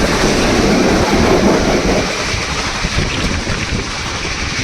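White Pass & Yukon Route narrow-gauge train running on the track: a steady rumble and rattle of wheels on rails, a little louder for the first two seconds.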